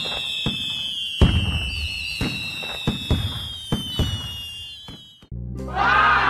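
Fireworks sound effect: a string of sharp bangs and crackles under high whistles that slowly fall in pitch. A little over five seconds in it cuts off and a loud ringing chime with a falling pitch begins.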